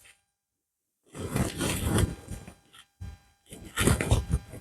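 Rustling and scraping of hands working in soil and leafy plants as ginger roots are pushed back into the ground. It comes in two noisy spells, the first starting about a second in and the second near the end.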